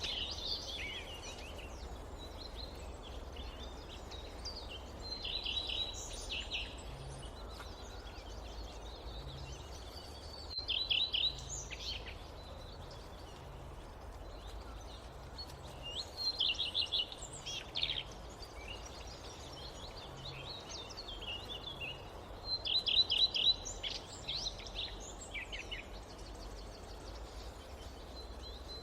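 A songbird repeats a short phrase of fast notes about every five or six seconds, with other birds twittering more faintly between phrases. A steady low rumble runs underneath.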